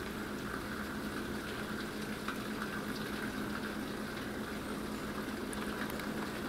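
Heavy rain pouring steadily in a thunderstorm, with a steady low hum underneath.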